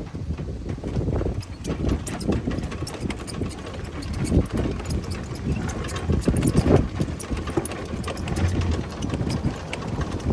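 1989 Dodge D100 pickup's engine running, with irregular knocks and clicks over the low rumble.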